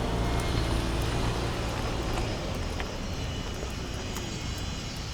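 Campfire crackling with sparse sharp pops, over the low drone of a distant engine that slowly fades away about two seconds in.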